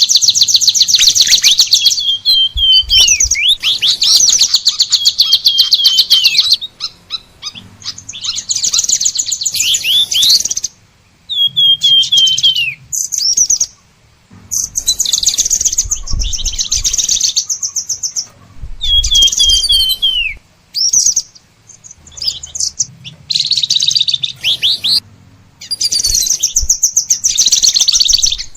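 A songbird singing in long phrases of fast, high chattering trills mixed with series of falling whistled notes, each phrase lasting a few seconds with short pauses between.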